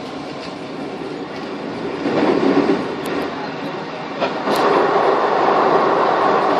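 Passenger train heard from inside the carriage: a steady rumble of wheels on rails with a few sharp clicks, swelling louder about two seconds in and again from about four and a half seconds as the train runs onto a steel truss bridge.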